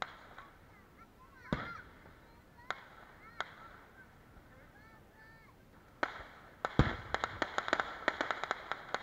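Fireworks going off: a few separate sharp bangs in the first seconds, then a heavy low boom about seven seconds in, followed by a rapid string of crackling reports.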